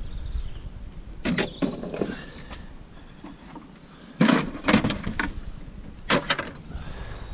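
Clunks and knocks in three groups: about a second in, around four to five seconds in, and again near six seconds.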